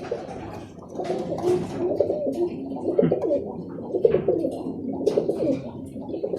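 Several Birmingham Roller pigeons cooing at once in the loft, their wavering coos overlapping and growing louder about a second in.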